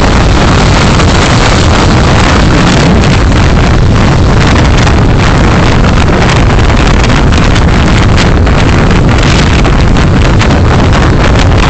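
Car driving: steady, loud road and wind noise with no distinct engine note, heavily saturating the dashcam microphone.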